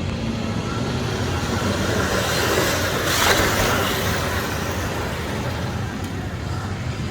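Pit bike engines running on a dirt track, swelling louder about three seconds in as bikes pass close.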